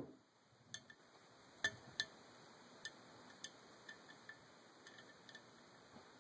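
Faint, irregular light clicks and taps from handling a diecast model airliner as its magnetic landing gear is fitted back on, with two slightly louder clicks about two seconds in.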